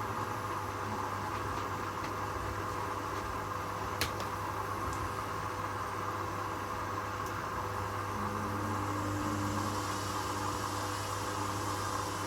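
Domestic washing machines running mid-cycle, a steady hum and whir of motor and drum. There is a single sharp click about four seconds in, and a low steady tone joins a little past two-thirds of the way through.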